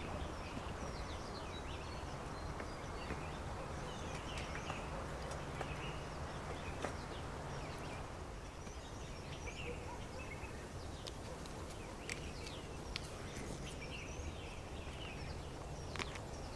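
Several small birds chirping and calling, many short notes throughout, over a steady even background hiss of outdoor ambience, with a few sharp clicks scattered in.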